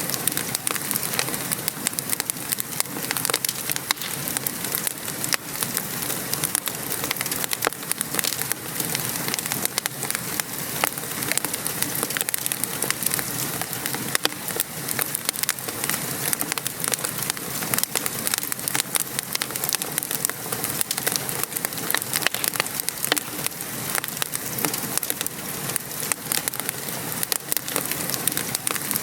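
Wood fire crackling over steady rain: a dense, even hiss of rain with many sharp pops and ticks from the fire.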